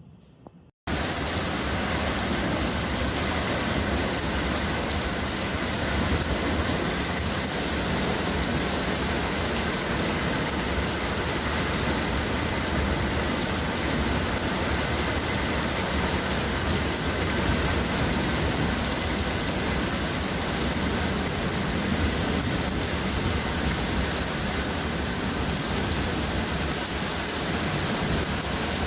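Heavy rain pouring in a steady, dense hiss during a thunderstorm downpour, starting abruptly about a second in.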